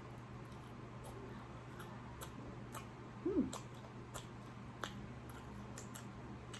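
Faint eating sounds: scattered soft mouth clicks and smacks from chewing, with a brief voiced hum about three seconds in, over a steady low room hum.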